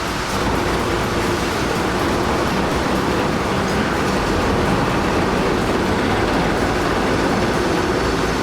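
Steady, dense mechanical noise of a large vehicle running.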